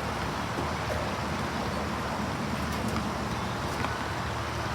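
Steady background noise of a basketball game in play: a low rumble and a general hum, with a few faint knocks.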